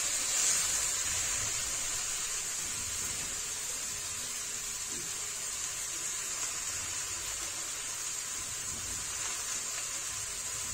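Sliced okra and onion sizzling steadily in hot oil in a kadai over a high gas flame, easing off slightly over the first few seconds.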